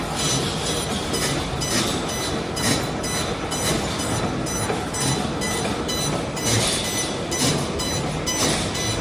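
Automatic concrete-pipe cage welding machine running: a steady mechanical clatter with a quick, regular beat of clicks and welds, a few to the second.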